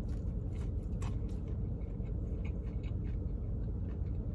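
A person chewing a mouthful of crispy fried chicken sandwich: faint, irregular crunchy clicks over a steady low hum inside a car.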